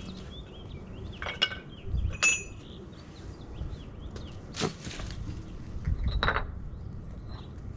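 Hand tools and concrete pavers being handled: about four separate sharp clinks and knocks, one with a short metallic ring.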